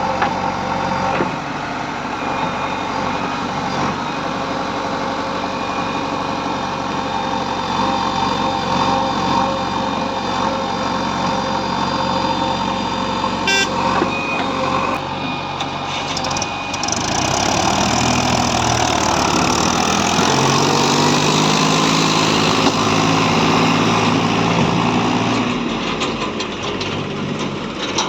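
Heavy diesel engines of a backhoe loader and tractor running at earth-moving work. About two-thirds of the way in, an engine comes under load and its note rises and grows louder, then eases off near the end.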